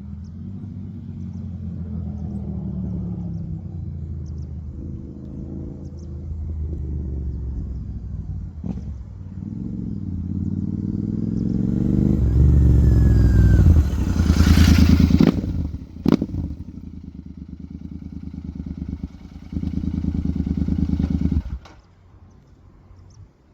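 Royal Enfield 650 parallel-twin motorcycle engine with an HP Racing aftermarket exhaust, idling and revved in a series of throttle blips, the loudest in the middle, with one sharp crack among them. A last rev is followed by the engine cutting off near the end.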